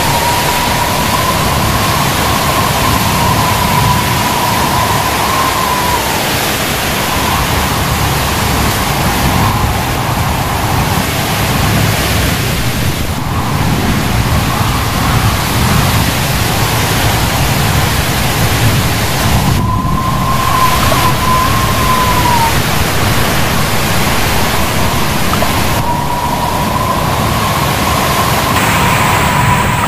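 Loud, steady roar of heavy rain and strong storm wind. A high, slightly wavering whistle comes and goes through it.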